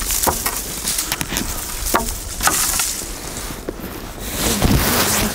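Dry branches and brushwood crackling and snapping as they are handled, with irregular sharp cracks and knocks of wood.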